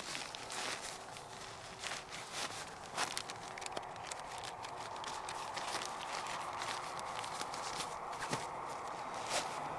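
Footsteps crunching in deep snow: irregular crisp crunches over a steady hiss.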